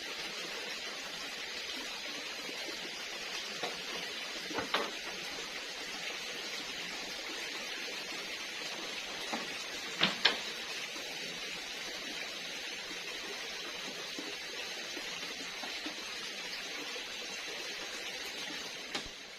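Steady hiss of forest background noise with a faint, high, steady tone in it, broken by a few sharp knocks; the loudest are two close together about ten seconds in.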